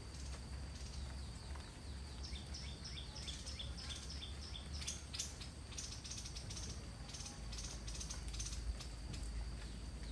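A bird chirping in a quick series of short, high notes over a steady background hiss and low rumble.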